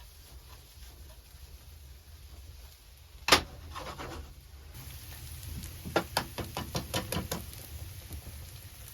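A single sharp knock, then about three seconds later a quick run of about eight lighter clicks, roughly five a second, over a steady low rumble.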